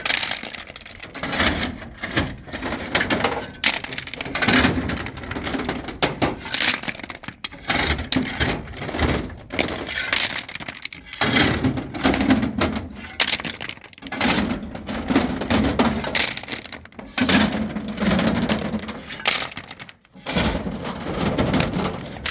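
Stones clattering and knocking against each other, many irregular hard impacts in quick succession throughout.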